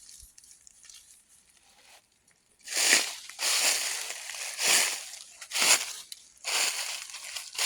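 Repeated crunching rustles, each about half a second long and roughly one a second, beginning about two and a half seconds in after a near-quiet start.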